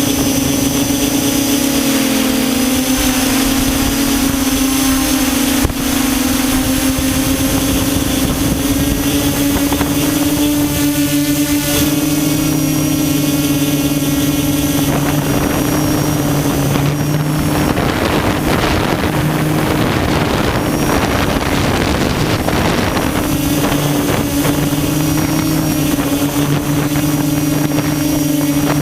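Quadcopter's electric motors and propellers humming steadily in flight, the pitch wavering slightly, with a rush of wind noise that swells in the middle.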